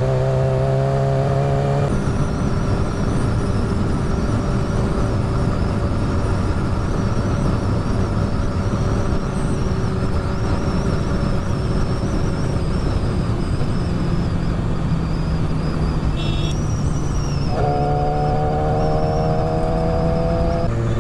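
Motorcycle riding at speed, heard from the rider's helmet: steady wind rush with a thin, high, wavering whistle from about two seconds in, which the rider blames on his helmet above 40 mph. Near the end the engine note climbs as the bike pulls harder.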